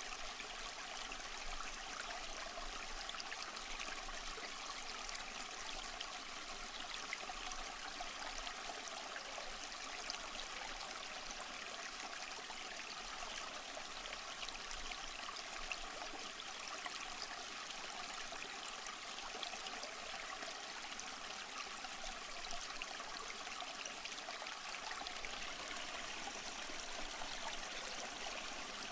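Small stream flowing and trickling over rocks: a steady, even babble of running water with fine splashes, no change in pace.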